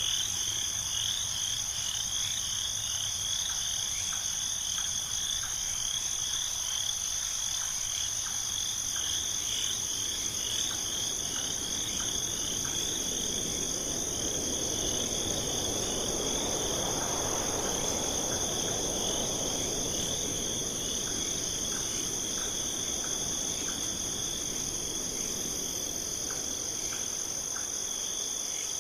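Chorus of crickets and frogs, a steady high trilling with a quick pulsed chirping in the first half. A soft rushing noise swells in the middle and fades again.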